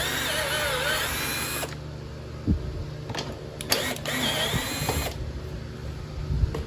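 Power drill with a socket adapter, run in two bursts of about a second and a half each on the mower engine's bolts, its motor whine wavering with the trigger. A few light knocks fall between the bursts.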